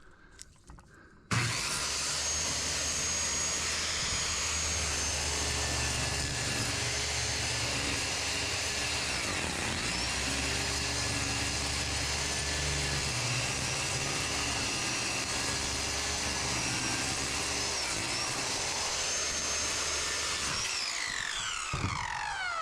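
Electric circular saw ripping a board along a snapped line, starting abruptly about a second in and running steadily under load for about nineteen seconds, then spinning down with a falling whine near the end.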